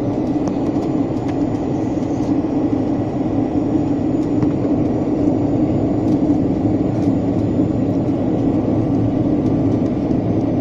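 Steady drone of a passenger jet's engines and rushing air, heard inside the cabin.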